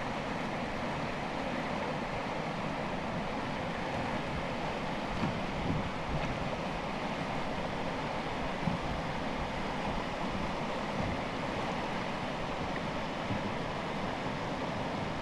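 Steady rush of whitewater as a canoe runs river rapids, with a few small splashes.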